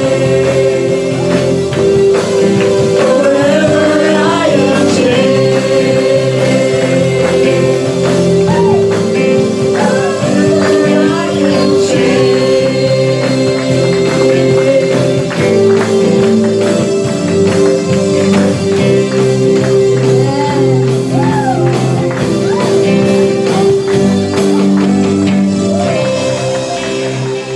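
Gospel-style worship music: singing over sustained held chords with light percussion, beginning to fade out near the end.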